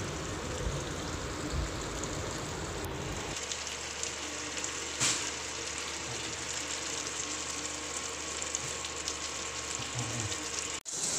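Chicken pieces frying in oil alone, with no water, in a pan on high heat: a steady sizzle that briefly cuts out near the end.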